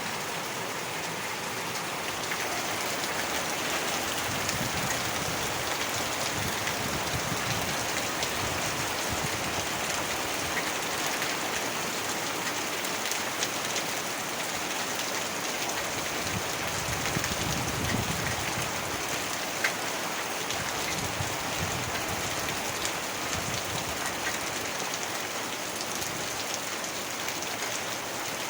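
Heavy rain falling in a steady, dense hiss, with a few louder individual drops hitting now and then.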